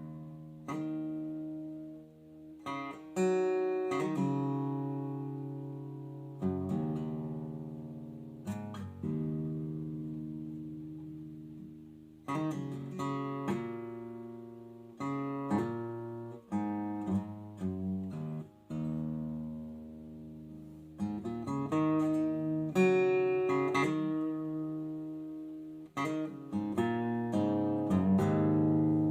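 Acoustic guitar playing slow chords, each strummed or plucked and left to ring out and fade before the next.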